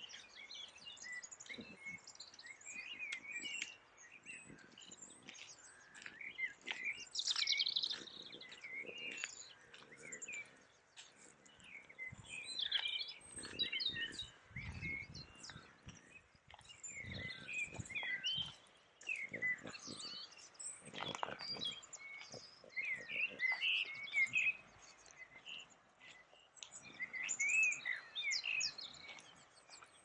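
Several small songbirds chirping and singing all around, short high calls and trills following one another throughout. Low thuds and rustles from walking on the path come and go, mostly in the middle.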